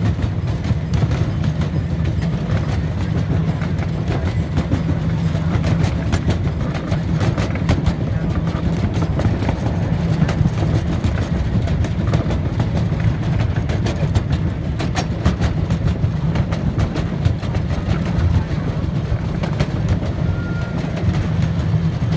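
Miniature park train running, heard from aboard the open passenger cars: a steady low rumble with many small irregular clicks and clacks from the wheels and cars.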